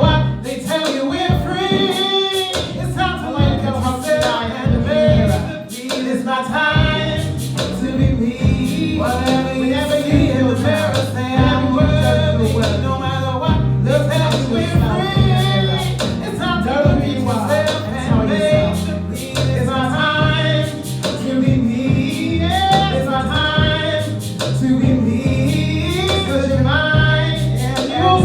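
A woman singing a neo-soul song over backing music with sustained bass and a steady beat.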